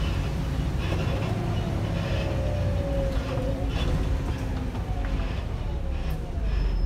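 Volvo B7RLE single-deck bus heard from inside while it drives: the six-cylinder diesel and drivetrain give a steady low drone, with faint whines that slide slowly down in pitch and scattered short knocks and rattles from the worn bus.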